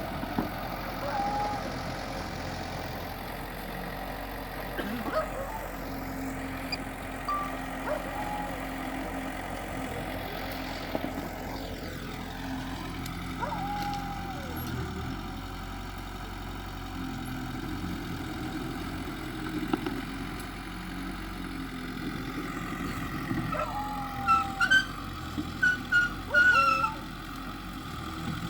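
Diesel engine of heavy earthmoving machinery running steadily. Several short, high-pitched squeals sound in quick succession near the end.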